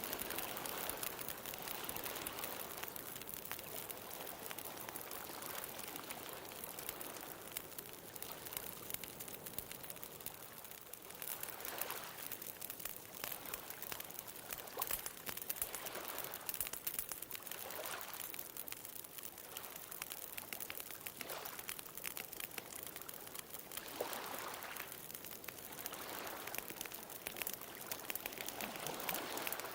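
Beach bonfire crackling with many small sharp pops over ocean waves washing ashore, the surf swelling and easing every five or six seconds.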